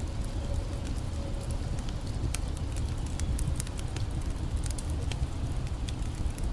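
Campfire crackling, with irregular sharp pops and snaps of burning wood, over a steady low rush of creek water.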